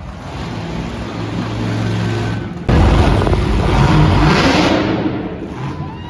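Monster truck engine running and revving, getting suddenly much louder partway through, with its pitch rising and falling as the throttle is worked.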